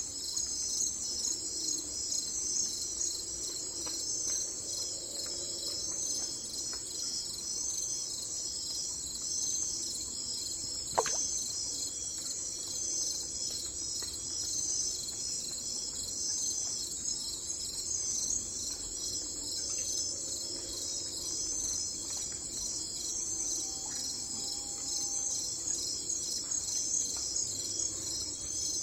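Steady insect chorus, a high dense pulsing trill that never lets up, with one sharp click about eleven seconds in.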